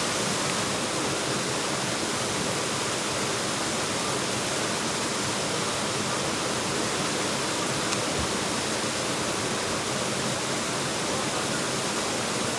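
Steady rush of river water pouring into a natural pool, an even unbroken rush.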